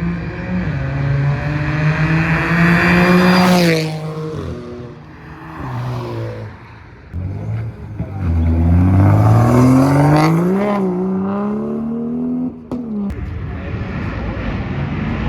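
A car engine revving hard under acceleration: its pitch holds high, falls away about four seconds in, then climbs steeply again from about seven seconds in to a peak around ten seconds, and breaks off suddenly near the end.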